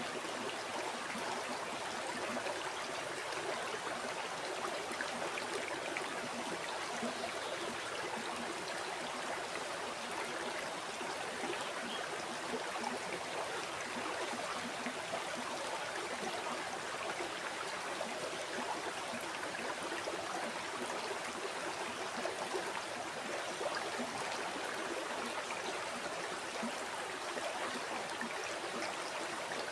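A river flowing over stones, a steady rushing with a light babble of trickling and gurgling water.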